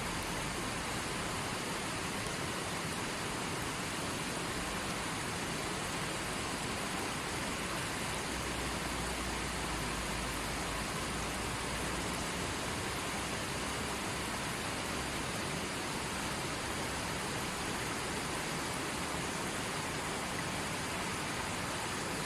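A steady, even rushing hiss that does not change in level or character.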